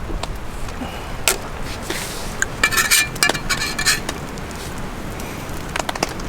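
Small hard items, metal or glass, clinking and knocking as they are handled. A cluster of ringing clinks comes in the middle, over a steady background noise.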